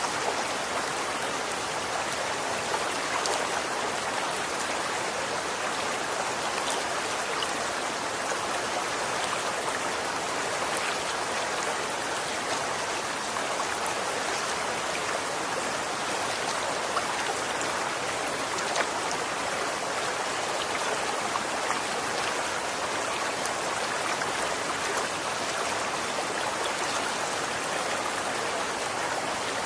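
Running water flowing steadily: an even rushing sound with many small splashing ticks.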